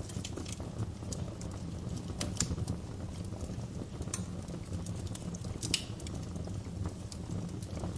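Wood fire burning in a fireplace: a steady low rumble of flames with irregular sharp crackles and pops, a couple of them louder than the rest.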